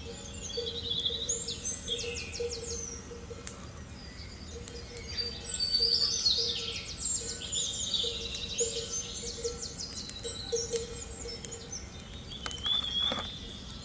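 Several songbirds singing in overlapping chirps and rapid trills, with a faint low pulsing drone beneath.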